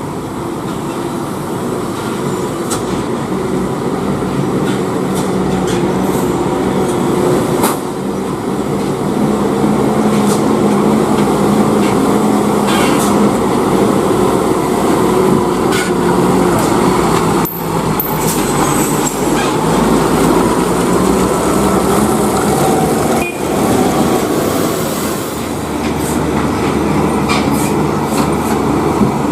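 Diesel engine of a heavily loaded tronton (three-axle) truck running loud and steady under load, with scattered rattling clicks. The engine sound drops out briefly twice in the second half.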